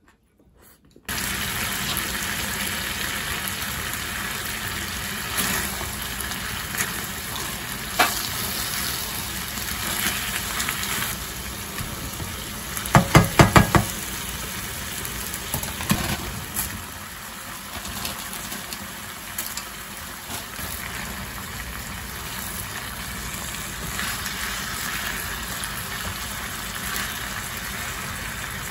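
Spicy marinated pork frying in a nonstick pan with a steady sizzle, stirred with silicone spatulas that scrape and tap now and then. A quick run of knocks comes about halfway through.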